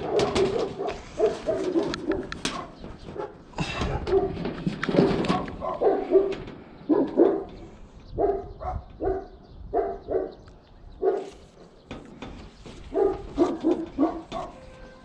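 A dog barking over and over, short barks coming in quick runs with brief gaps between them.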